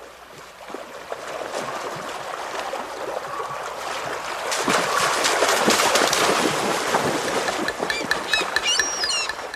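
Rushing water noise that builds up and stays loud, full of fine crackles. Short, high bird chirps come in near the end.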